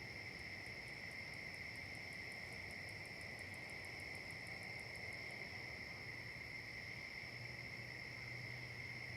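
Insects singing in a fall chorus: a steady, unbroken high trill, joined for the first half by a second insect's rapid, very high ticking pulses, about five or six a second, which stop about halfway through.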